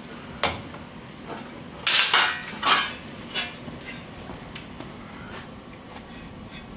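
A few sharp metallic clinks and knocks, with two louder short clattering bursts about two and three seconds in: steel parts being handled and struck during welding work on the floor supports.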